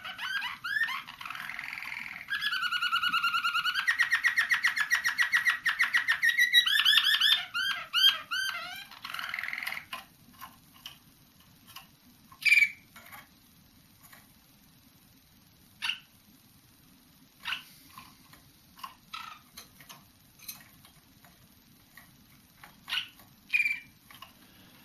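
Young roller canary singing: rapid rolling trills, one held steady on a single pitch, then a run of wavy gliding notes. The song stops about ten seconds in, leaving scattered short chirps. The passages are new song tours the young birds are still developing.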